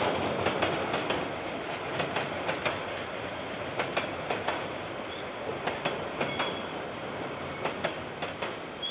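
KiwiRail train's wagons rolling past with a steady rumble and irregular clacks of the wheels over rail joints, slowly fading toward the end.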